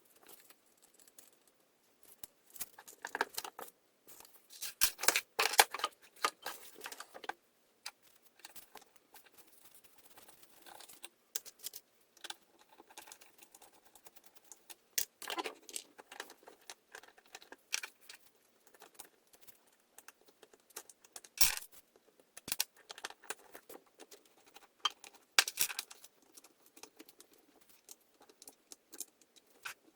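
Hands working on a chainsaw during carburetor repair: irregular metallic clicks, rattles and scrapes of small parts and tools, in several louder clusters with quiet handling between. The engine is not running.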